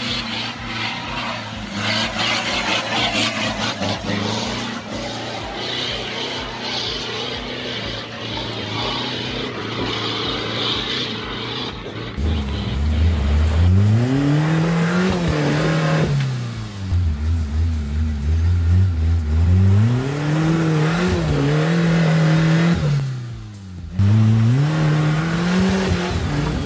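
An off-road 4x4's engine pulling steadily up a dirt climb, then a Suzuki Samurai's engine revved hard again and again as it spins its tyres in deep mud, the pitch climbing and falling with each rev. The revving dips briefly once, then rises again as the jeep tips over.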